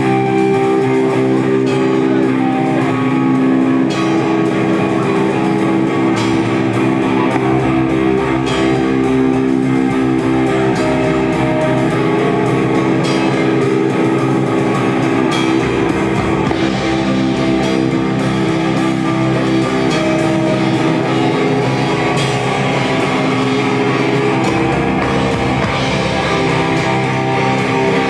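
Live rock band playing: sustained guitar chords ringing over a steady drum kit beat.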